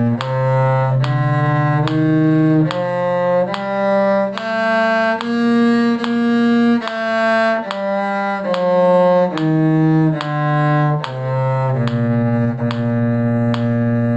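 Cello playing a B-flat major one-octave scale and arpeggio: separate bowed notes at a steady tempo, climbing to the top about halfway through and then coming back down.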